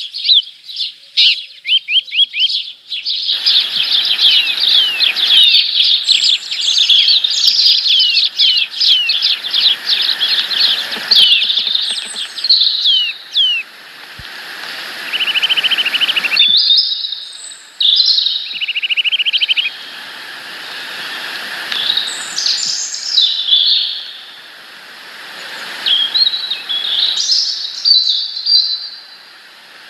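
Small birds chirping, many short calls in quick runs and overlapping, with a few buzzy trills. A rustling noise lies under the calls for much of the time.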